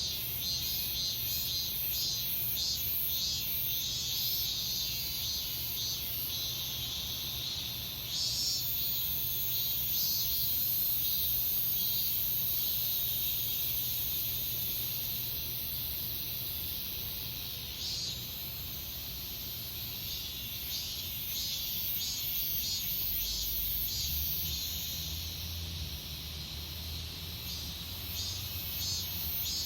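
Cicadas singing in late summer: a chorus of high-pitched pulsing calls, about two pulses a second, that blends into one steady high buzz for a stretch in the middle before the pulsing returns. A faint low rumble lies underneath.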